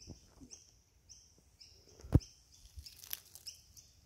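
Faint, high bird chirps repeated every half second or so, with one sharp click about two seconds in.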